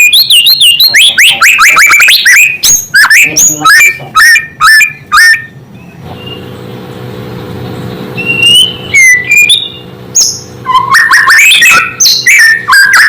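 White-rumped shama (murai batu) singing a fast, loud run of sharply gliding whistles and chirps. It pauses for about three seconds partway through, leaving a faint steady hum, then starts a second burst of rapid phrases.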